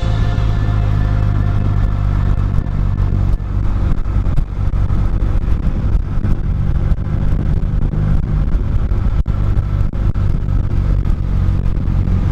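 Motorcycle engine running steadily under way, its low drone holding a constant pitch under a haze of road noise.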